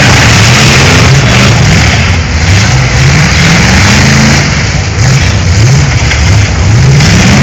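Demolition derby cars' engines revving hard, their pitch climbing and dropping again and again as the cars accelerate and back up. Loud throughout.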